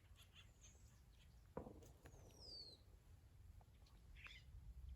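Near silence with faint bird calls: one falling chirp about two seconds in. A short soft knock comes just before it.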